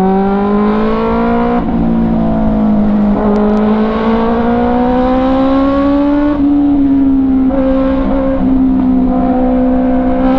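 Benelli 600i's inline-four engine pulling under acceleration. Its pitch climbs, drops at a gear change about one and a half seconds in, then climbs slowly and levels off, with a low wind rumble underneath.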